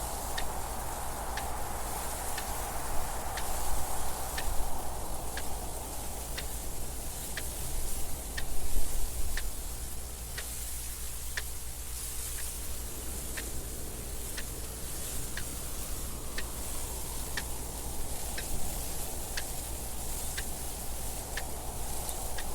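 Clock ticking steadily, about two ticks a second, over wind noise that swells and eases, gusting loudest about eight to nine seconds in.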